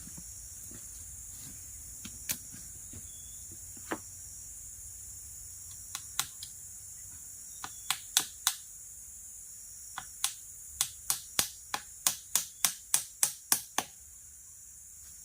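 A steady high insect chorus, with sharp knocks or taps over it: scattered at first, then a quick run of about a dozen at roughly three a second near the end.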